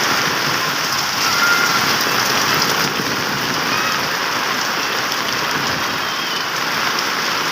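Heavy monsoon rain falling steadily, an even hiss of rain on surfaces.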